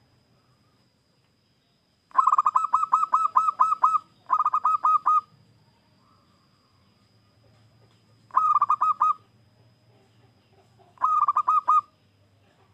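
Zebra dove (perkutut) cooing in four bursts of rapid staccato notes, the first the longest at about two seconds, with pauses of a few seconds between phrases.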